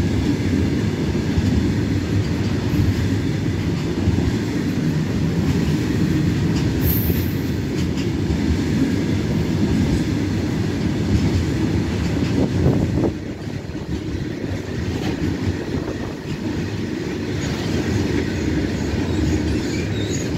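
Loaded freight train wagons rolling past at close range: a steady rumble of steel wheels on the rails with clattering over the rail joints, easing a little about two-thirds of the way through.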